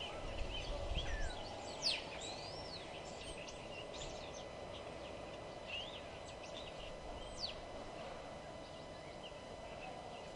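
Several birds singing and calling at once: quick chirps and short whistled notes, some sliding sharply up or down, with a cluster of louder notes in the first two seconds. A steady low background hum runs underneath.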